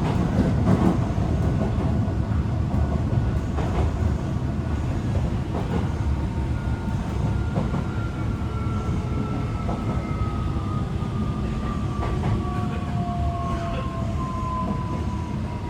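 Running noise of a Tokyo Metro 18000 series electric train heard from inside the passenger car: a steady low rumble with scattered wheel clicks over the rails. From about halfway through, a thin whine slowly falls in pitch.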